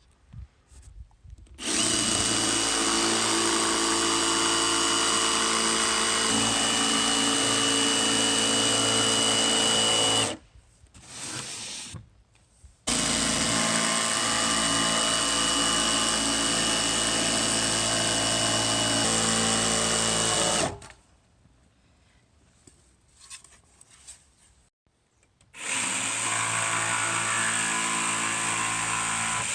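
An electric power tool running at a steady speed in three long runs, the first two about eight seconds each and the last about four, with a short quieter burst between the first two.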